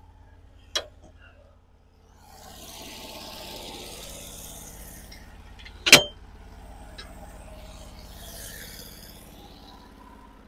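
Portable sawmill's engine running steadily between cuts, with a sharp clank about six seconds in and a few lighter clicks.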